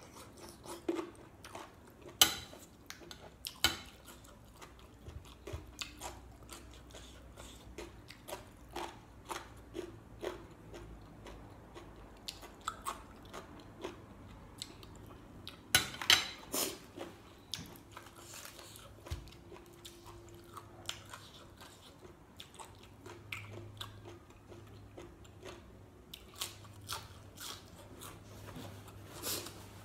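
Close-up eating sounds: chewing and crunching on a spicy glass-noodle salad with boneless chicken feet. Irregular sharp clicks and crunches are scattered throughout, the loudest about two seconds in and around sixteen seconds.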